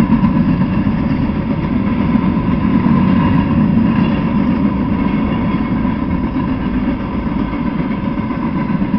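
Freight train cars rolling past: a steady rumble of steel wheels on rail, with a faint constant whine above it.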